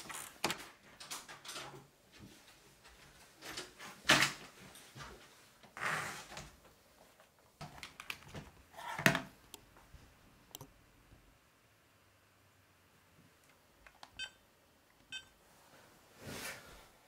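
Quiet household handling sounds: scattered knocks, clicks and rustles, then two short electronic beeps about a second apart near the end.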